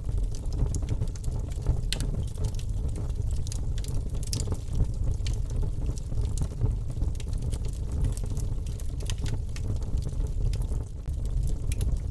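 Wood fire crackling, with many small irregular pops and snaps over a low steady rumble.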